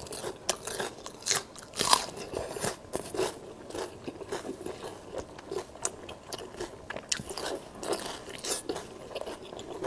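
Close-miked eating sounds: a person biting and chewing food, with irregular crisp crunches and wet mouth clicks, the loudest about two seconds in.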